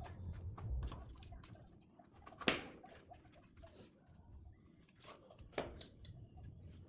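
Split oak firewood being stacked, logs clunking and knocking against each other, with small clicks throughout. The loudest knock comes about two and a half seconds in, and another sharp one just past five and a half seconds.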